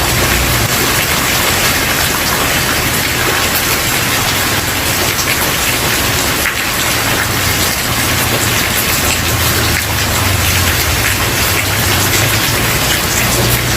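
Steady rain falling and pattering on a surface, with fine crackling drops up high over a low steady rumble.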